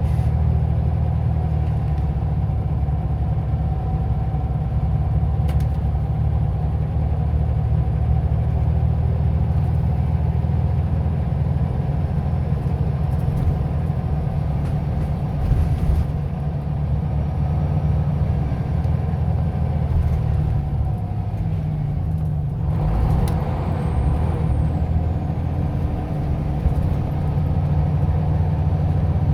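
Scania OmniLink I city bus engine running with a steady low drone as the bus drives. About three quarters of the way in the drone dips briefly and a short burst of broader noise follows.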